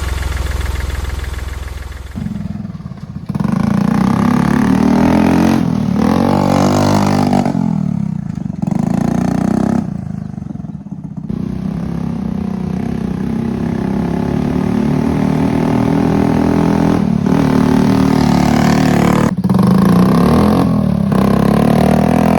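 A motor vehicle engine running and revving, its pitch rising and falling repeatedly, with several brief drops as the throttle is let off.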